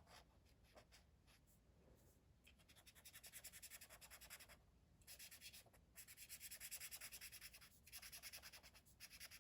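Faint scratching of colouring strokes on paper: quick back-and-forth strokes, about six a second, in four short runs with brief pauses between them.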